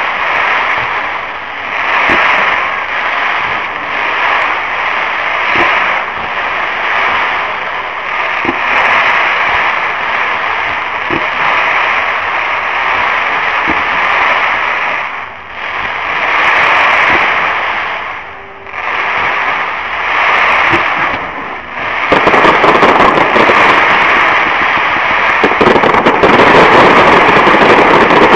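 Fireworks bursting and crackling in swells every couple of seconds, with occasional sharp bangs; the barrage gets denser and louder about three quarters of the way through.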